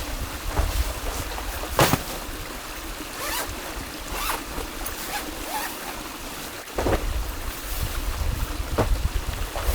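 Steady rush of a mountain stream with wind buffeting the microphone, the buffeting dropping away for a few seconds in the middle, and a few sharp knocks scattered through it.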